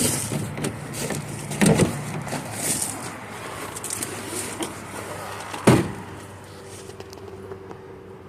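Clicks and knocks of a pickup truck's door and cab being handled, with one loud thump a little before six seconds in, like a door shutting.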